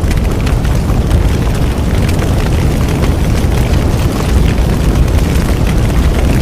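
Large bonfire burning: a steady low rumble of the flames with frequent sharp crackles and pops from the burning wood.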